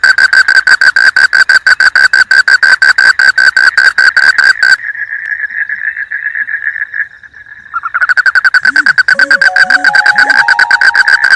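Loud chorus of frogs calling at night: a fast, steady pulsing trill that cuts out for about three seconds in the middle, then comes back.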